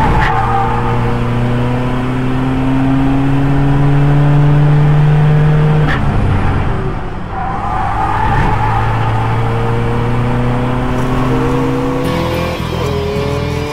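Audi TT race car's 2.0 TDI diesel engine pulling hard under acceleration, its note climbing steadily. The pitch drops about six seconds in and again near the end, then climbs again.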